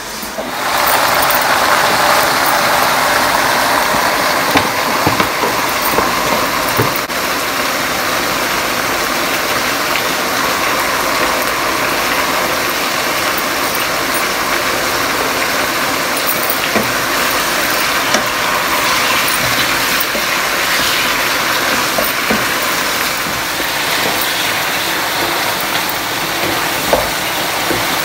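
Potatoes and aubergine frying in oil in a wok, a steady sizzle that comes in sharply about half a second in, with occasional clicks of a spatula against the pan.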